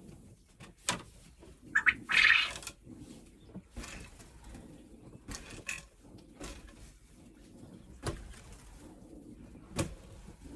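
Penned birds calling, with a few sharp knocks; the loudest sound is a short harsh burst about two seconds in.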